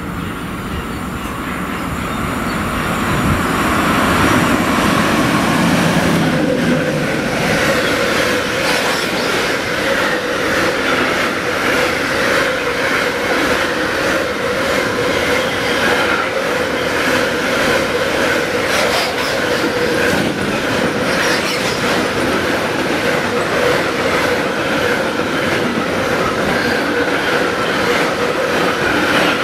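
A red DB Class 189 electric locomotive hauling a long freight train of hopper wagons passes close by. The sound grows louder over the first four seconds as the train draws near, then the wagons roll past with a steady clatter of wheels over rail joints. A steady high tone, a wheel squeal, runs over the rolling noise.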